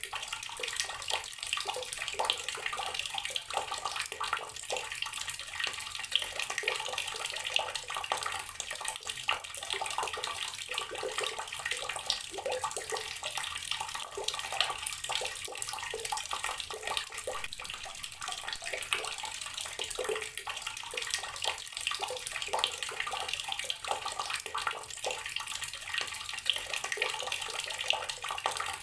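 Water running from a tap in a steady stream, splashing and pattering into the basin below.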